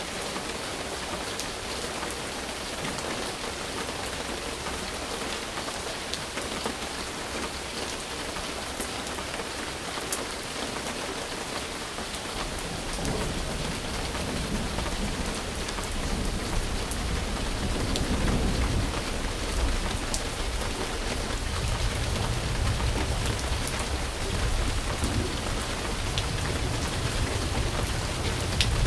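Steady heavy rain falling, with scattered drop ticks. About halfway through, a low rolling rumble of thunder comes in and builds, lasting to the end.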